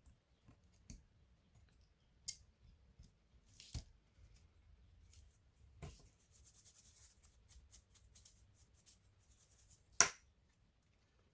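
Small clicks, taps and light rustling from laptop parts being handled and worked on, with one sharp click about ten seconds in.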